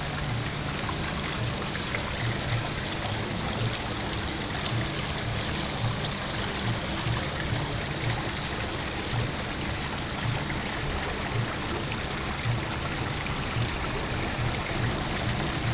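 Running water: a steady, even rushing with trickling.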